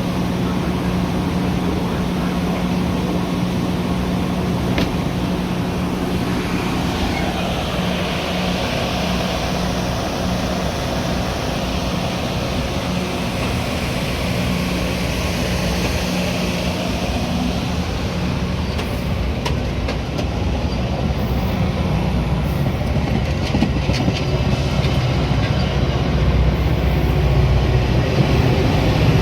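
Steady rumble and hum of a Metra commuter train, with a low drone throughout, growing a little louder over the last few seconds.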